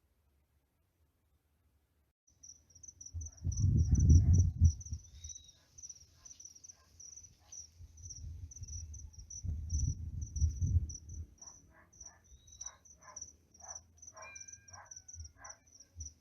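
Insects chirping in a steady, high, pulsing trill that starts about two seconds in. Two loud low rumbles come through, one about four seconds in and a longer one around ten seconds, followed near the end by a quick series of about six short calls.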